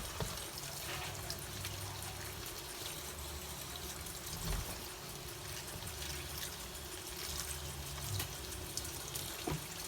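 Water running steadily from a kitchen tap as lettuce leaves are rinsed under it.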